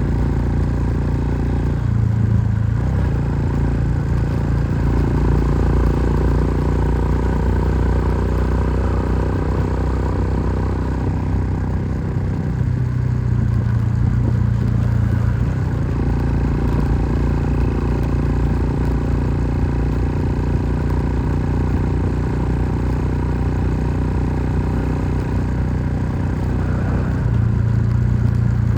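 An engine running steadily, with its pitch shifting slightly a few times.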